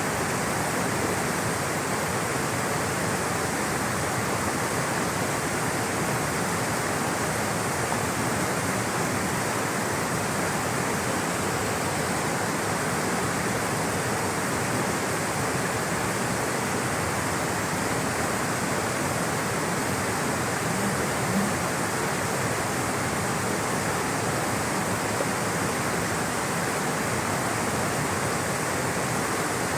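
Rushing water flowing in a steady, even rush without a break.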